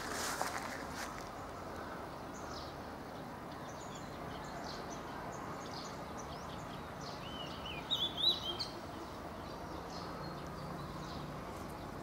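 Birds chirping over a steady outdoor background hiss, with a short burst of louder, higher chirps about two-thirds of the way through.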